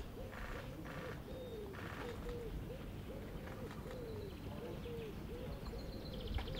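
Birds calling outdoors: a low call repeats about two to three times a second, with short bursts of higher trilling chirps in the first two seconds, over a low background rumble.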